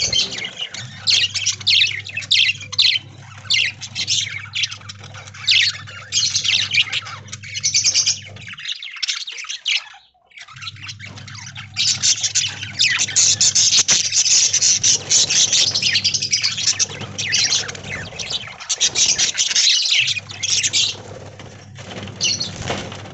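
A flock of budgerigars chirping and chattering continuously in rapid high calls, over a low steady hum, with a brief break about ten seconds in.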